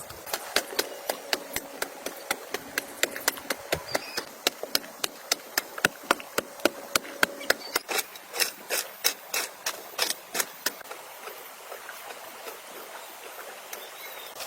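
A rapid series of sharp knocks, about three to four a second, like hammering, that stops about eleven seconds in.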